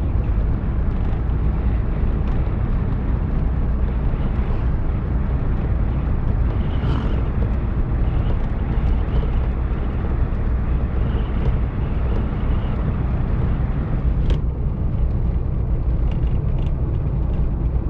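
Steady low rumble of a moving car, engine and road noise, with a few faint clicks.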